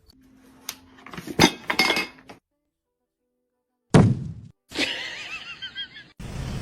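A clatter of hard objects clinking and knocking together, with ringing after the strikes, like something breakable knocked over. A single sudden knock follows after a short pause.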